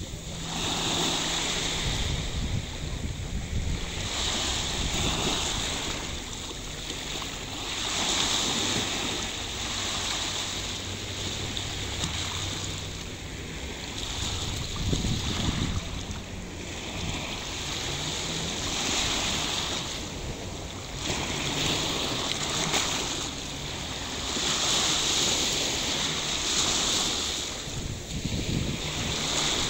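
Sea waves washing onto a beach, swelling and falling back every few seconds, with wind rumbling on the microphone.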